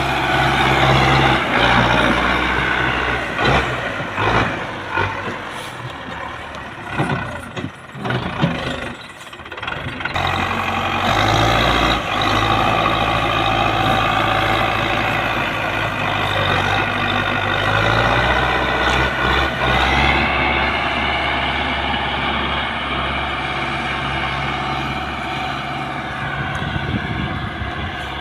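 Heavy diesel engines of tractors, or a tractor and an excavator, running under load during the recovery of a tractor-trolley stuck in mud. The note holds steady, with irregular knocks and clanks and dips in level in the first third, then steady running with small changes in revs.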